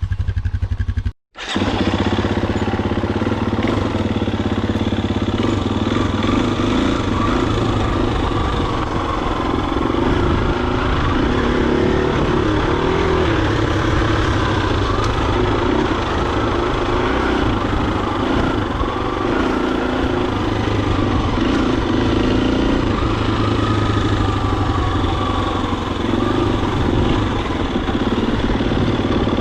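Husqvarna FE250's single-cylinder four-stroke engine running under way, its pitch rising and falling with the throttle. The sound cuts out completely for a moment about a second in.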